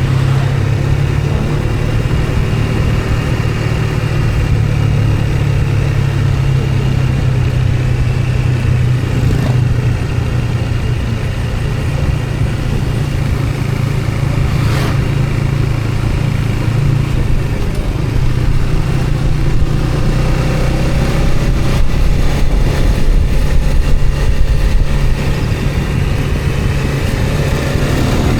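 A motor vehicle on the move, its engine running steadily under a continuous low rumble of road noise.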